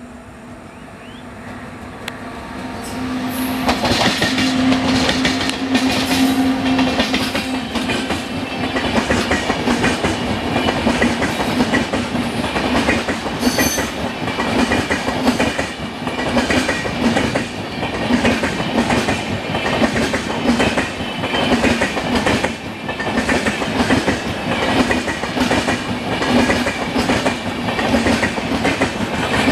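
Indian Railways full-AC express train passing close by, its wheels clattering in a repeating rhythm over the rail joints. The sound swells over the first few seconds as the train arrives, then stays loud and steady with the clatter.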